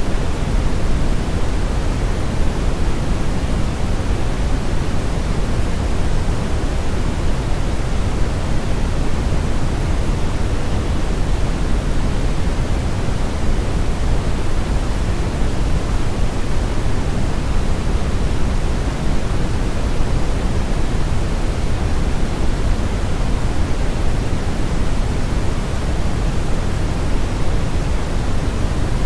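Continuous brown noise: a steady, deep hiss with most of its weight in the low end and the highs rolled off, without any change or events.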